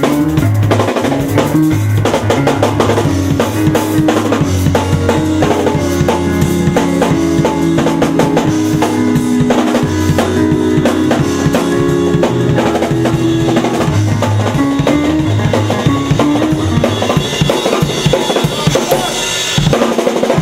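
A live band jamming: a drum kit plays a busy beat of kick drum, snare and rimshots over a bass line and held sustained notes.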